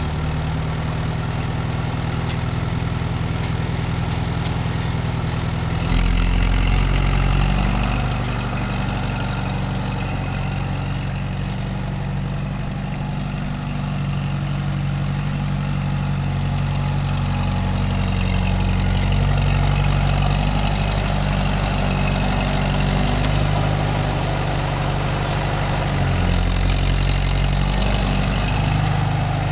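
1973 Oliver 550 tractor's four-cylinder engine running steadily. Its note steps up and grows louder about six seconds in, eases back a couple of seconds later, and rises again briefly near the end.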